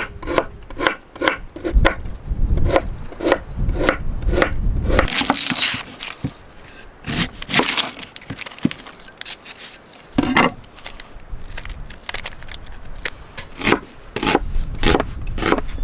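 Firewood being cut by hand: rhythmic rasping strokes on wood, about two a second, breaking off for a couple of seconds twice before starting again, over a low rumble.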